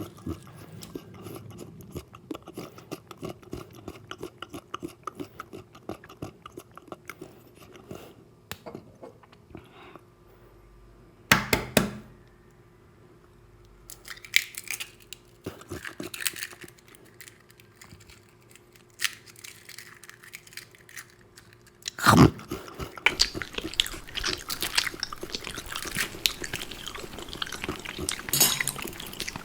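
Close-miked ASMR eating sounds: chewing and crunchy bites in irregular bursts. There is a loud bite about a third of the way in and another about two-thirds in, after which the chewing becomes busier and denser. A faint steady hum sits underneath until the second loud bite.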